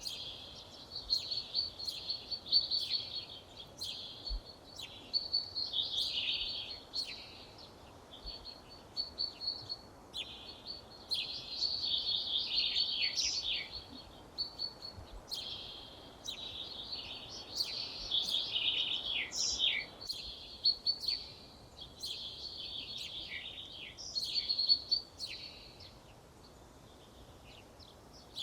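Songbirds singing: runs of varied, high twittering phrases and trills lasting a few seconds each, separated by short pauses.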